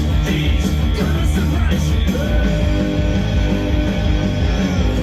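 Loud rock music with electric guitar, drums and singing, a track from the band's own album.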